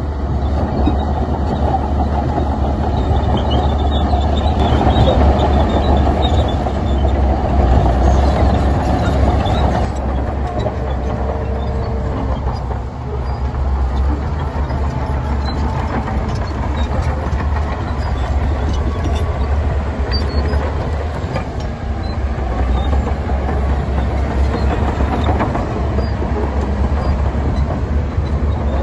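Heavy diesel earthmoving machinery running steadily, with a deep continuous low rumble.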